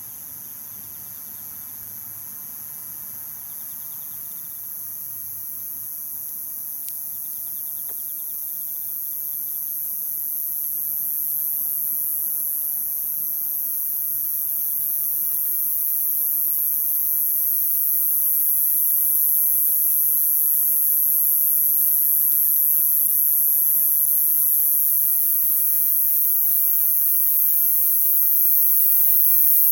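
Night-time chorus of crickets and other insects: a dense, steady high-pitched trilling, with fainter trains of quick pulsed chirps beneath it, growing gradually louder.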